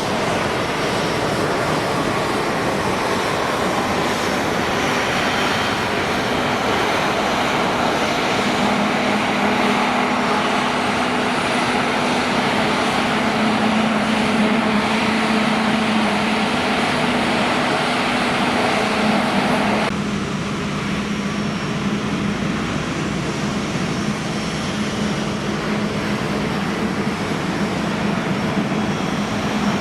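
Airliner jet engines running at an airport, a steady loud rush with a low hum. The sound changes abruptly about two-thirds of the way through, with the mid and upper range suddenly thinner.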